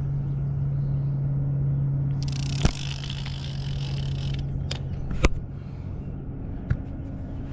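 A steady low mechanical hum under a noisy hiss, broken by a few sharp clicks or knocks, about two and a half and five seconds in.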